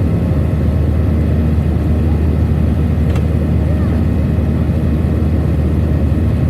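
Steady low drone of a Boeing 737-800's CFM56 jet engines and airflow, heard inside the passenger cabin.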